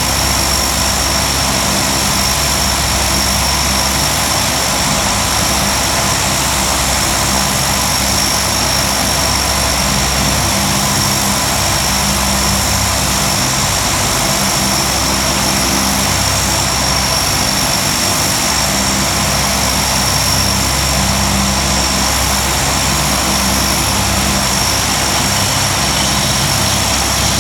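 Lockheed P-3C Orion's Allison T56 turboprop engines running steadily: a loud, even rush with a steady high-pitched whine over it.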